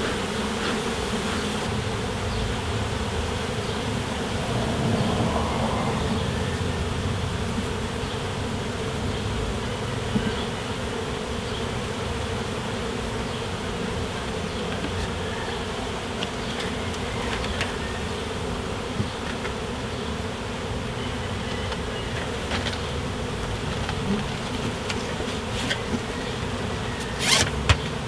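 Many honeybees buzzing steadily around an open hive after an inspection. A few sharp clicks near the end.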